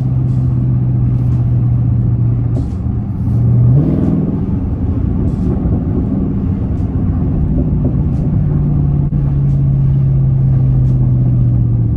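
V8 exhaust of a 2021 Dodge Charger Widebody with its mid muffler deleted, droning steadily at cruise, heard from inside the car with a window partly open. About four seconds in the revs jump briefly and the note turns rougher, then the steady drone comes back in the second half.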